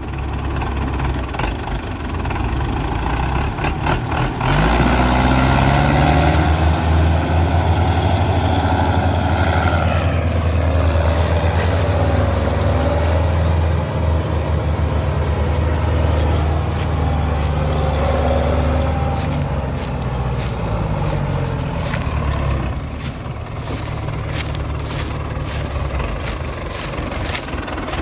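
Tractor diesel engine revving up about four seconds in and running hard at high revs, as when pulling a heavily loaded sugarcane trolley, then easing off somewhat in the last few seconds.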